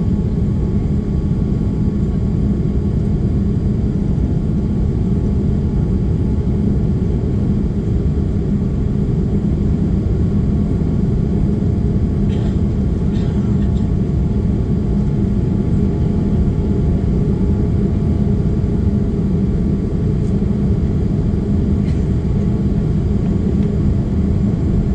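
Inside the cabin of a Boeing 787-8 Dreamliner: the steady low noise of the jet engines and airflow, with no change in level throughout.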